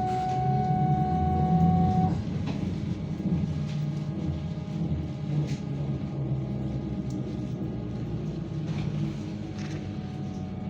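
Interior of a BKM-32102 trolleybus under way: a steady low running hum with rumble. A higher electrical whine stops about two seconds in, and there are a few light rattles.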